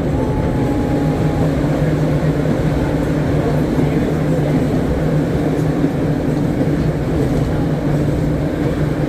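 Philadelphia Suburban Transportation Co. trolley car #76 running steadily through a long tunnel: a loud, even rumble of wheels on rail with a steady low hum, and a brief faint whine near the start.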